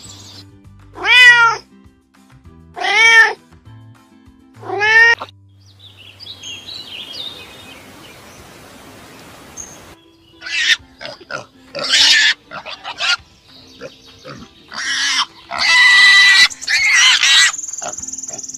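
Three drawn-out cat meows about two seconds apart, each rising then falling in pitch. From about ten seconds in comes a run of short squeals and grunts from wild boar piglets. Soft background music plays underneath.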